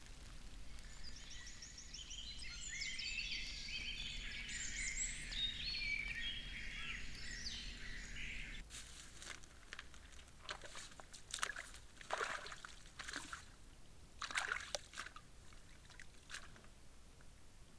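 Songbirds singing in a dense spring chorus, cut off abruptly about halfway through. After that come a dozen short splashing sounds in water.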